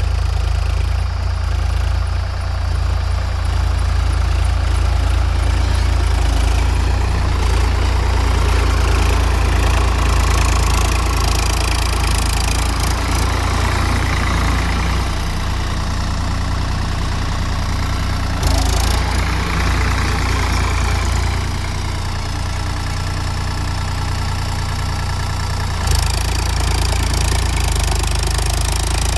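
Tractor engine running steadily with a deep, even hum, with a brief clunk about two-thirds of the way through.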